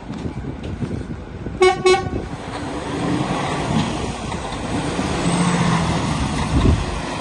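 Two short horn toots in quick succession about one and a half seconds in, over the steady low rumble of a Mercedes Actros truck's diesel engine with wind noise.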